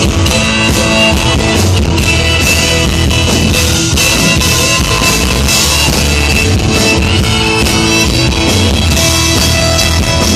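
Country-rock band playing an instrumental break without vocals, electric guitar over bass and drum kit.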